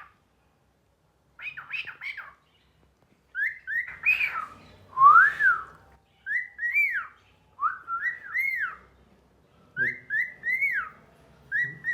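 Cockatiel whistling: a few quick chirps, then short phrases of two or three rising-and-falling whistled notes, repeated every second or two.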